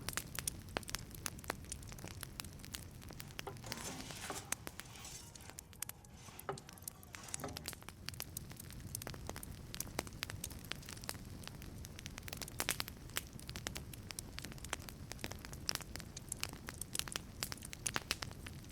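Wood fire crackling inside a wood-fired pizza oven: irregular sharp pops and snaps over a steady low rumble of flame, with a short hiss about four seconds in.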